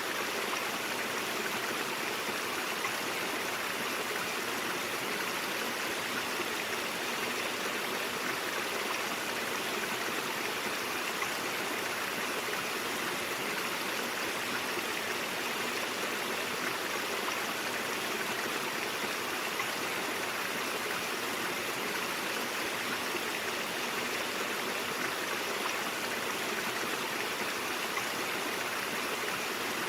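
Stream water running over rocks: a steady, even rush and gurgle of flowing water.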